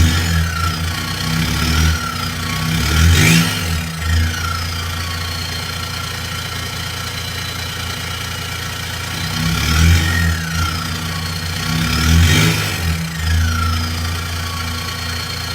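Straight-piped Peugeot 406 Coupé 2.2 HDi four-cylinder turbodiesel idling, still cold after a cold start. It is blipped several times in two bunches, near the start and again about ten seconds in, and a high whistle rises and then falls away with each rev.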